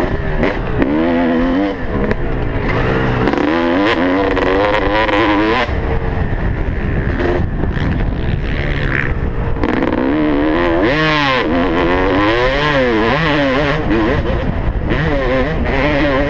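Motocross dirt bike engine racing, its revs rising and falling again and again as the rider accelerates and backs off.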